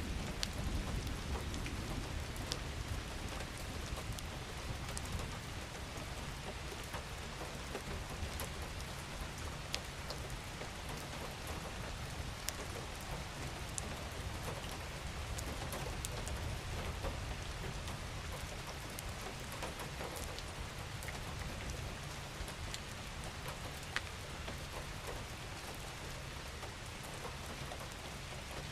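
Gentle rain falling steadily: an even hiss of rain on surfaces with scattered individual drop ticks, over a low rumble underneath.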